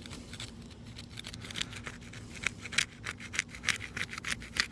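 Brittle asphalt roof shingle being rubbed and pried loose, giving an irregular run of dry scratchy scrapes and crackles.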